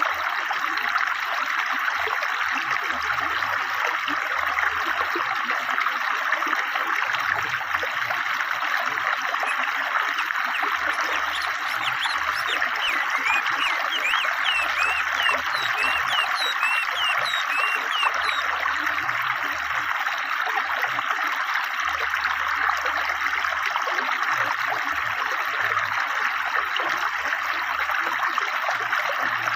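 River water flowing steadily over stones, an even rushing babble. Birds chirp in quick high notes through the middle stretch.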